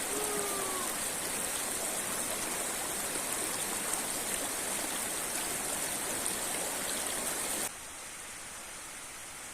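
River and waterfall rushing steadily, with a short whistled note sliding slightly down in pitch just after the start. About three-quarters of the way through, the water sound cuts off suddenly to a quieter, thinner hiss.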